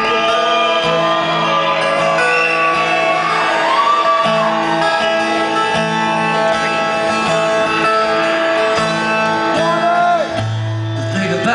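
Live rock band playing an instrumental passage led by acoustic guitar, with bass under it; a new low bass note comes in about ten seconds in.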